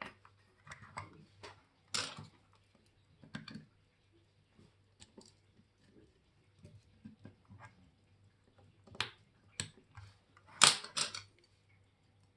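Irregular small clicks and taps of watchmaker's metal tools and watch parts being handled on the bench, a few at a time, with the loudest cluster of clicks near the end.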